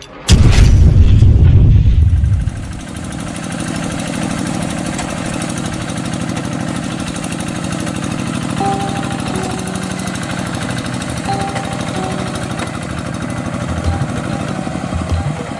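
A farm tractor's engine running. A loud burst fills about the first two seconds, then it settles to a steady run with a fast, even beat.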